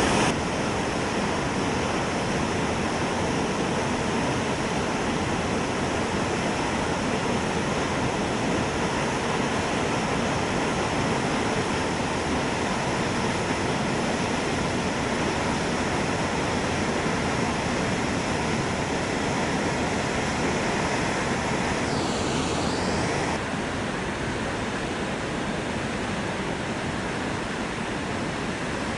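Steady rushing of a waterfall running high after very heavy rain, a dense unbroken noise that steps down slightly about three-quarters of the way through.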